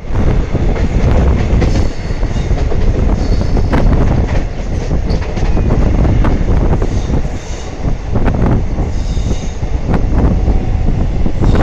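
Moving train running on the track, with a loud rumble and irregular clanks and knocks. Brief high wheel squeals come about seven and nine seconds in.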